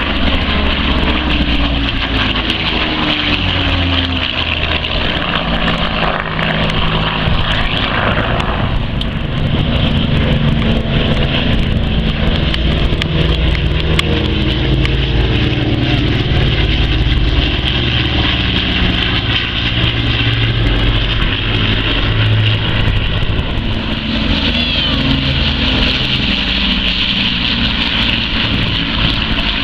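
Loud, steady engine noise with stacked tones that slowly shift in pitch, some falling early on.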